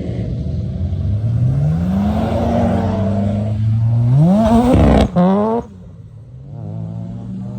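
Car engine revving under acceleration: the pitch climbs and holds, then rises steeply to a peak about five seconds in and breaks off sharply. A quieter, steady engine note follows.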